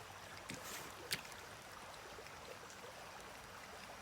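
Faint steady rush of creek water flowing, with two small clicks in the first second or so.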